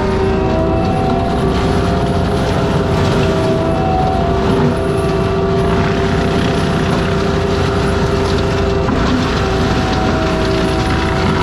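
ASV RT-120F tracked loader running its forestry mulcher: a loud, steady machine sound with several held tones that waver slightly in pitch over a dense rumble.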